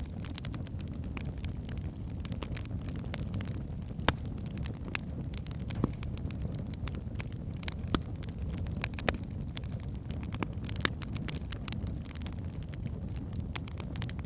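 Logs burning in a fireplace: a steady low rumble of flames with frequent small crackles and a few louder pops.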